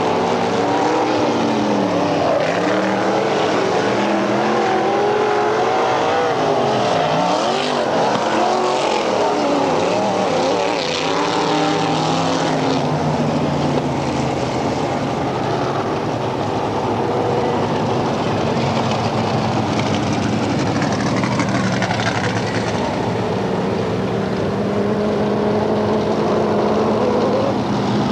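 Dirt-track race car engines running, several cars going past with their engine notes swooping up and down; in the second half the engine sound is steadier.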